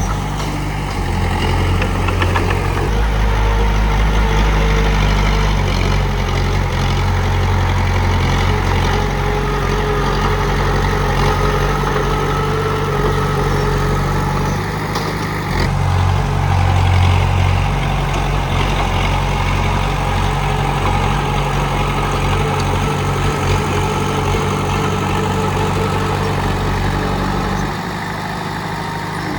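Komatsu D31P bulldozer's diesel engine running steadily, its low note changing about halfway through and easing slightly near the end.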